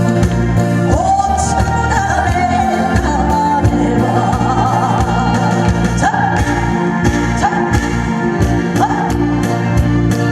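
Trot song performed live: a singer's voice over a band accompaniment with a steady beat.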